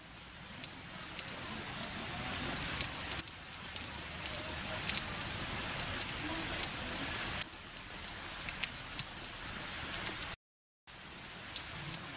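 Heavy rain falling on stone and leaves: a steady hiss dotted with many separate drop ticks. The sound cuts out completely for about half a second near the end.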